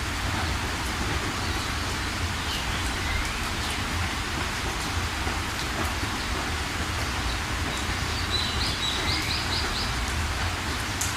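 Steady rain with scattered bird chirps over it. Near the end a bird gives a quick run of about five short notes.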